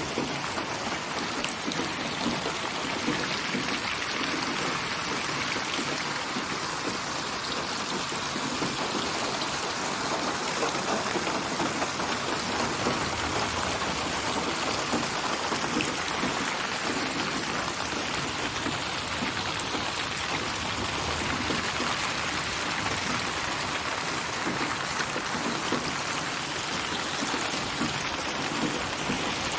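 Steady rain falling: an even hiss with many small individual drops throughout.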